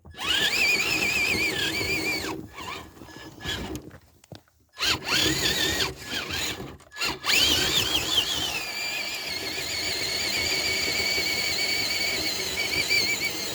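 Electric motor and geartrain of an RC crawler truck whining under throttle while pushing through snow, the pitch wavering with the load. It cuts out and restarts a few times in the first half, rising in pitch each time it picks up, then runs steadily.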